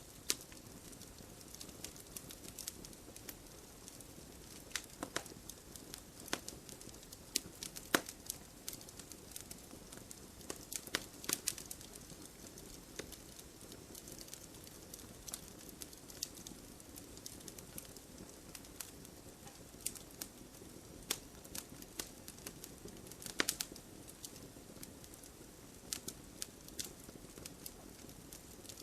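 Campfire burning, with irregular sharp crackles and pops from the burning wood over a low steady hiss and rumble of the flames.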